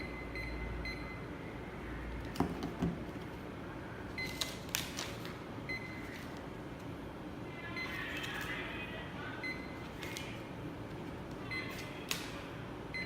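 Barcode scanner engine giving short, high, single-pitch beeps, each one the sign of a successful code read, repeated at irregular intervals a second or several apart. A few sharp clicks and knocks are heard among the beeps.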